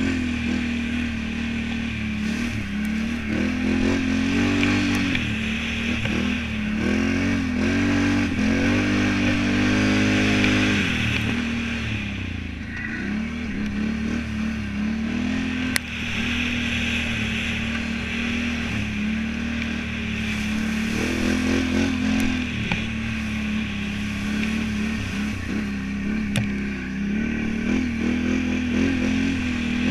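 Can-Am Renegade 1000 ATV's V-twin engine revving up and falling back over and over as it is ridden, with the longest climb in revs about eight to eleven seconds in. Two brief sharp knocks stand out near the middle and toward the end.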